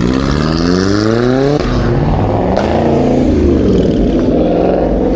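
A car engine accelerating hard, its pitch climbing steeply for about a second and a half, then running on at high revs. A single sharp crack comes about two and a half seconds in.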